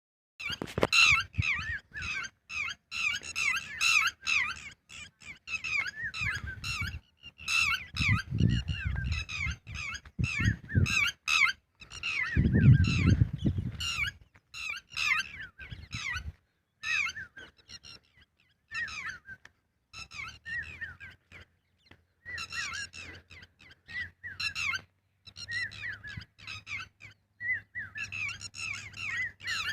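Red-wattled lapwing calling: runs of rapid, sharp, repeated notes with short pauses between runs. Low rumbling noise twice near the middle.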